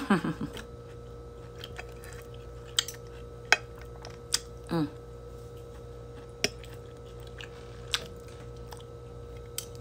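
A person eating with the mouth close to the microphone: quiet chewing with scattered sharp smacks and clicks, and a short hum in the voice about five seconds in, over a steady low background hum.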